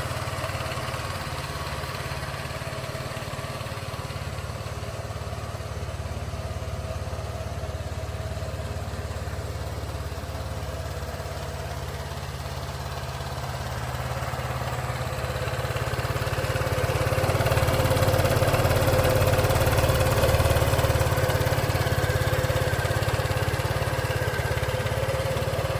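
Piaggio Medley 125 scooter's single-cylinder four-stroke engine idling steadily. It grows louder for a stretch in the second half.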